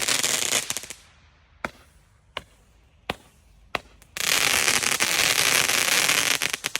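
Ground firework going off: a loud hissing rush that stops about a second in, four sharp cracks about 0.7 s apart, then a second hissing rush of about two and a half seconds that ends just before the end.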